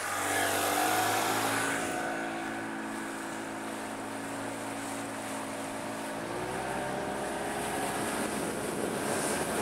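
Johnson 35 hp outboard motor running steadily, its pitch stepping up slightly about six seconds in.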